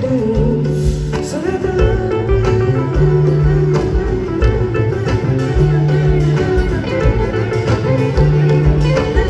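Live band music in an instrumental passage: guitars over a repeating low bass figure and a steady percussion beat.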